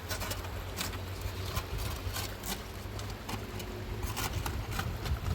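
Storm wind rumbling on the microphone under a hiss of rain and water, with a scatter of sharp taps and clicks at irregular intervals.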